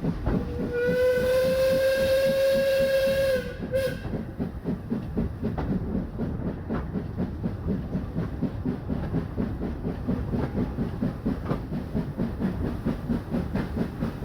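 Robert Stephenson & Co 0-6-0 steam locomotive sounding one long whistle blast with a short toot just after it, then its exhaust beating in a steady rapid rhythm as it works hard hauling its coaches up the incline.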